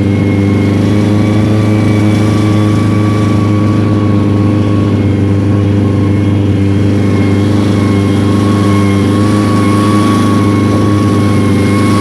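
A loud, steady engine drone from a running vehicle, holding one even pitch with no revving.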